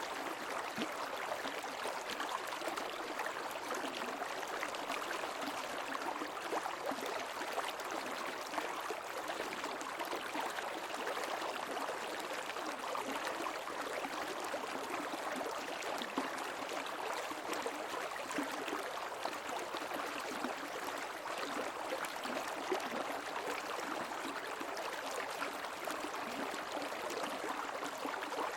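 Creek water flowing steadily, an even, unbroken rush.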